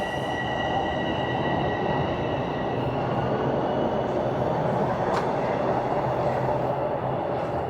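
Toronto subway train running through the station with a steady rumble. A high, steady whine that was already there fades away over the first few seconds, and a single sharp click comes about five seconds in.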